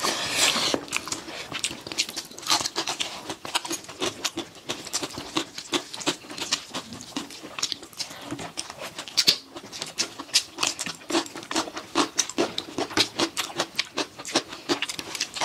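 Close-up eating sounds of two people chewing fried rice with their mouths, with many quick wet smacks and clicks coming several times a second in an irregular patter.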